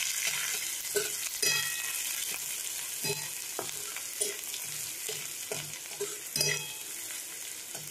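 Oil sizzling in a kadai as a tempering of cumin, dried red chillies, curry leaves and grated ginger fries, with a spatula scraping and stirring the pan in repeated strokes, about two a second.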